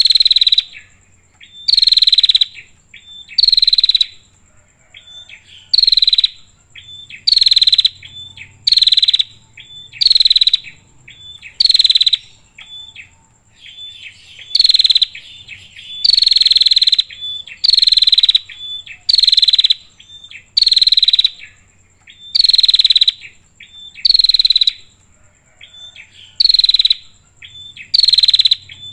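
Female prinia (prenjak) giving its repeated raspy call, one loud buzzy note about every second and a half with short quieter chips in between, as used to lure males. A faint steady high tone runs underneath.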